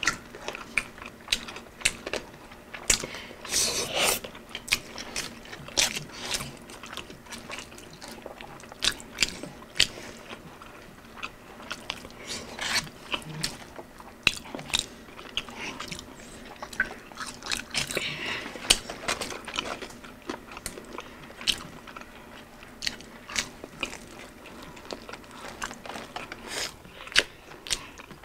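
Close-miked eating: crunchy bites and chewing of fried chicken and curly fries, with many sharp wet mouth clicks and smacks. Two longer, louder crunches come about four seconds in and about two-thirds of the way through.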